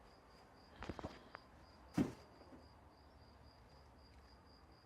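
A cricket chirping in an even, rapid pulse, about four chirps a second, with a few short knocks about a second in and a louder knock about two seconds in.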